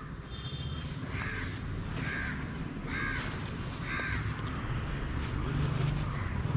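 A bird calling four times in a row, about a second apart, over a low steady rumble.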